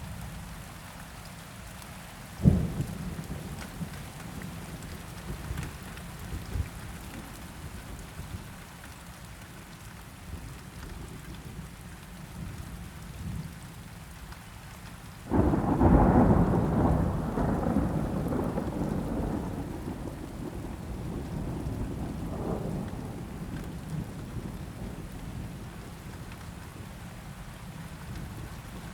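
Steady rainfall with a rumble of thunder that breaks suddenly about fifteen seconds in and fades away over several seconds. A single sharp crack sounds about two and a half seconds in.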